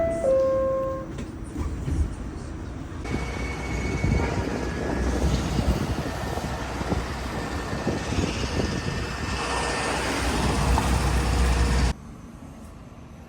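Subway train running with a steady low rumble, opening with a two-note descending chime. The sound changes abruptly about three seconds in and drops to a quieter hum about twelve seconds in.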